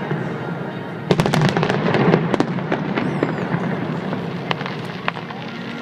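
Fireworks display going off: a rapid volley of sharp cracking bangs starting about a second in, then scattered single pops.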